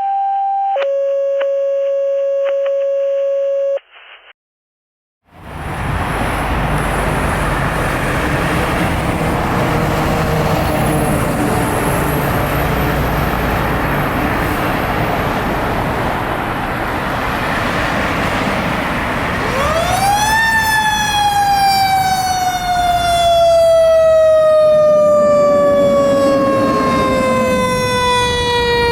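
Two steady paging tones, one after the other, like a dispatch tone-out, then a brief silence. Then the Spartan Metro Star fire engine runs, and about two-thirds of the way in its siren winds up quickly and slides slowly down in pitch.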